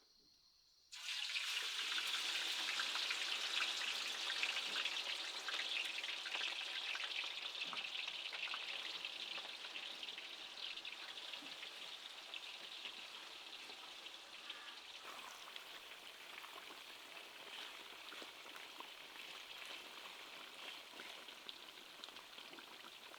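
Food sizzling and crackling in hot oil. It starts suddenly about a second in, as the food goes into the pan, and slowly dies down.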